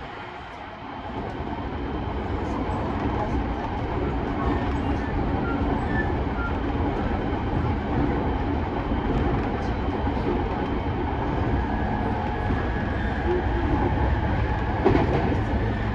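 JR East E217-series electric multiple unit running, heard from inside the passenger car: a steady rumble of wheels on rail and traction equipment. It grows louder over the first few seconds as the train gathers speed, then holds steady, with a single knock near the end.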